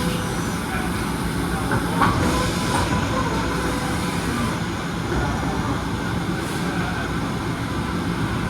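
Steady running noise of industrial machinery, with one short knock about two seconds in.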